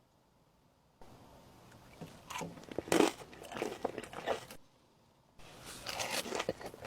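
Close-miked eating of sushi: bites and chewing in two irregular stretches, broken by short silent gaps. The loudest bite comes about three seconds in.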